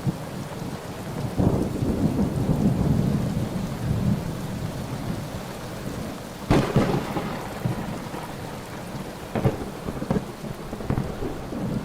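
Thunderstorm with rain: low rolling thunder, a sharp thunderclap about six and a half seconds in, and smaller cracks a few seconds later.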